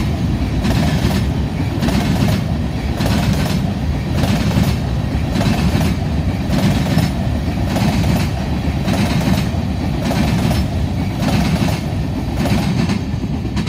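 Covered hopper cars of a freight train rolling past, their steel wheels clicking over the rail joints in a steady clickety-clack over a low rumble, beginning to fade as the last car goes by at the end.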